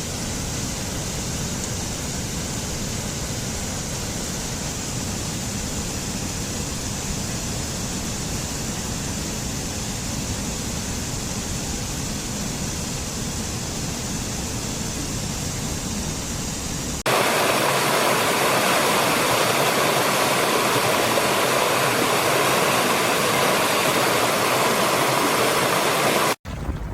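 Steady rush of running water, a stream or waterfall. About two-thirds of the way through it cuts abruptly to a louder, brighter rush of water, with a brief dropout just before the end.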